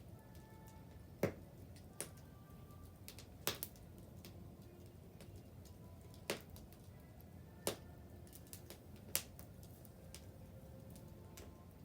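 Wood bonfire crackling: sharp, irregular pops a second or two apart over a low steady rumble, the loudest about a second in.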